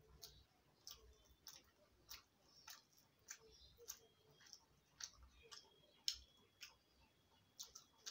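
Faint, wet mouth clicks of a person chewing a mouthful of food, coming at a steady pace of roughly two a second.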